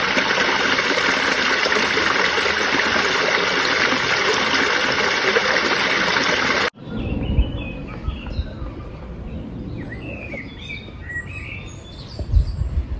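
Steady rushing water, like a forest stream, that cuts off abruptly about halfway through. Then small birds chirp over a low rumble, with a couple of soft thumps near the end.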